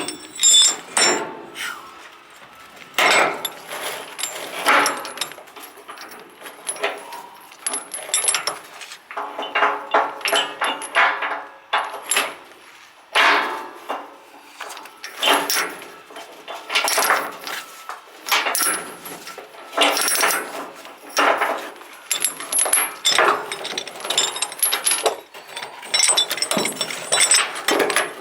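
Steel tie-down chains clinking and rattling in irregular bursts every second or two as they are handled and hooked while securing an excavator for transport.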